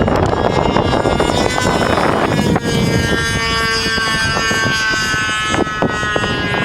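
Motor of a radio-controlled model amphibian plane running at high power, its whine drifting in pitch as it flies, with wind buffeting the microphone.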